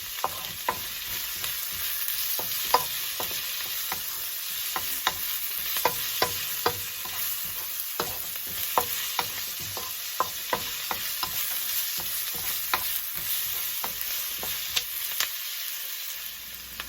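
Onions and garlic sizzling in hot oil in a kawali (wok) while being stirred, a steady hiss broken by irregular sharp clicks.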